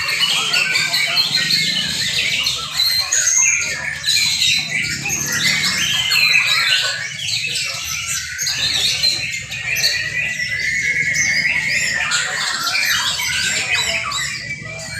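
Several young white-rumped shamas singing at once, a dense tangle of overlapping whistles, trills and harsh chattering calls, with one long warbling trill from about nine to eleven seconds in.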